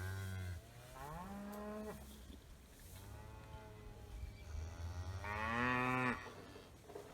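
A cow lowing at her newborn calf in several low moos, the loudest about five seconds in.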